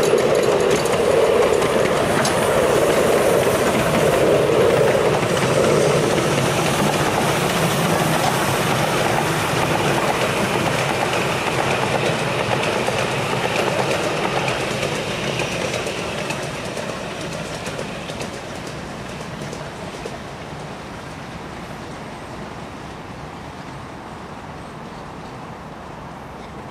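Miniature railway passenger carriages rolling past over the track with a clickety-clack of wheels on rail, then the train running away into the distance and fading steadily through the second half.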